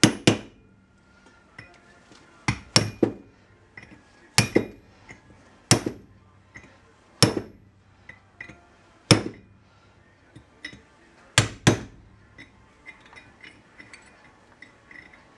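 Hammer striking a cold chisel held against the lip of a kingpin bushing in a steel truck spindle: about a dozen sharp metallic taps at uneven gaps of one to two seconds, some in quick pairs.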